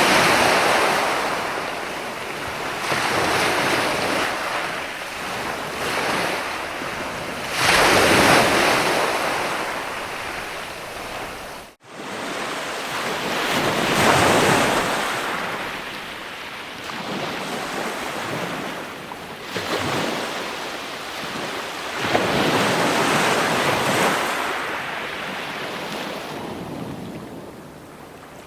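Ocean waves breaking and washing ashore, the surf swelling and easing every few seconds. A very brief gap about twelve seconds in, where the sound cuts out and returns.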